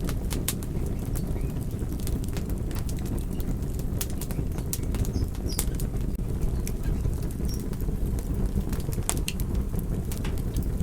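Crackling fire: a steady low rumble of flames with irregular sharp crackles and pops scattered through it.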